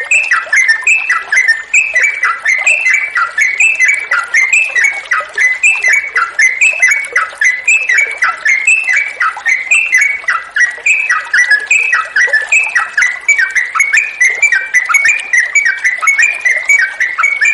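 Yellow-vented bulbul (trucukan) singing nonstop in a long, fast string of bubbly chirped notes, over the hiss of running water.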